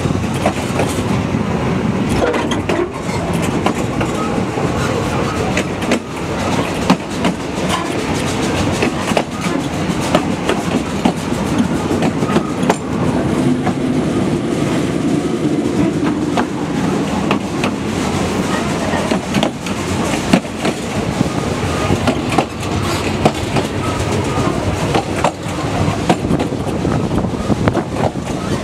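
Narrow-gauge passenger train running, heard from aboard its carriages: a steady rumble and rattle, with the wheels clicking and knocking irregularly over the rail joints.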